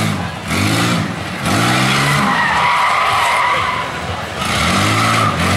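Demolition-derby minivan engines revving up and down again and again at high throttle, with tyres spinning and a steady high squeal over them.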